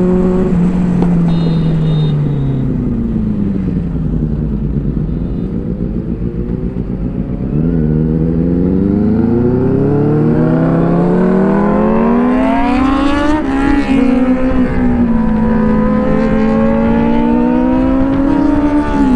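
Sport motorcycle engine heard from on the bike while riding: the revs fall away over the first few seconds, then climb steadily from about halfway to a peak, and hold at cruising pitch with small rises and dips and a quick gear change near the end.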